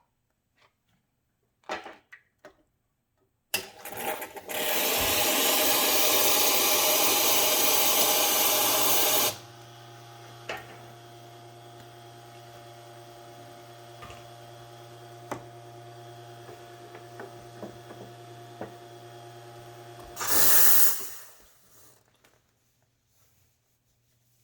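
La Spaziale Vivaldi II espresso machine: a loud rushing hiss for about six seconds, then the pump hums steadily for about ten seconds and stops with a brief loud whoosh of released pressure. This fits a backflush cycle against a blind basket.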